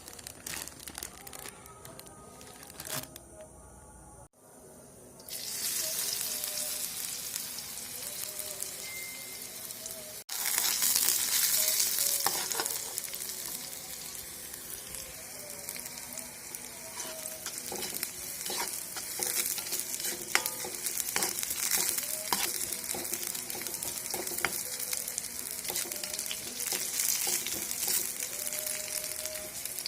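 Food frying in hot oil in a pan with a steady sizzle and the scattered clicks of a spatula stirring and scraping. The first few seconds hold only a few faint clicks; the sizzle starts about five seconds in and gets louder about ten seconds in.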